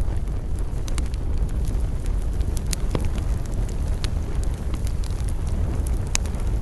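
Wood campfire crackling, with scattered sharp pops over a steady low rumble. The loudest pop comes near the end.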